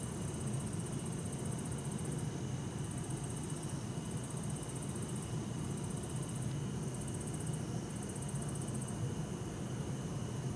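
Night insects singing, bell crickets among them, with a pulsing high chirp that comes in bursts of about a second and steady high trills, over a constant low rumble of distant city traffic.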